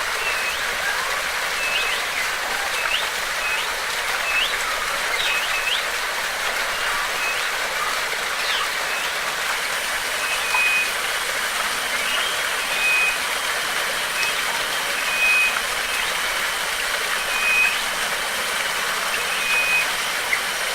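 Steady rush of flowing water, with a bird calling over it in short, high, repeated notes: quick rising chirps in the first half, then flat whistled notes about once a second. A thin, high, steady tone joins about halfway.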